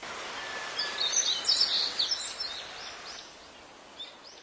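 Wild birds chirping, a quick cluster of high chirps about a second in and a few fainter ones near the end, over a steady outdoor rushing noise that fades about three seconds in.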